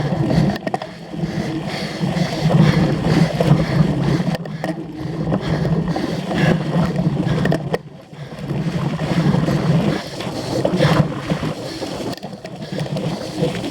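Wind rumble and rattling while riding a cyclocross bike over rough ground, rising and falling with scattered knocks and clatters.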